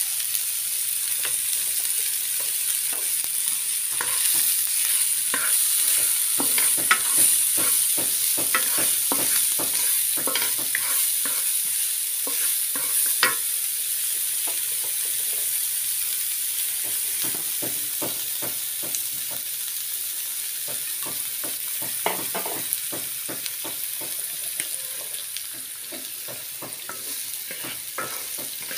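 Diced onion and hotdog sizzling in oil in a nonstick wok, a steady high hiss. A wooden spoon stirs and scrapes against the pan in quick strokes, most busily in the middle and thinning out near the end.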